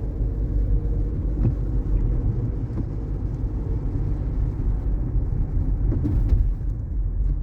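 Road and tyre noise inside a moving Waymo robotaxi's cabin, likely on a wet road: a steady low rumble with a few faint clicks.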